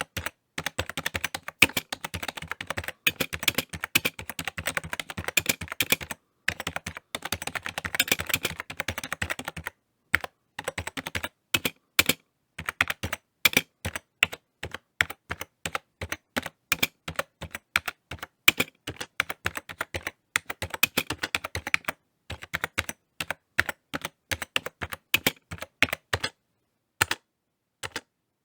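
Typing on a computer keyboard: fast runs of key clicks broken by short pauses, thinning to a few separate keystrokes near the end.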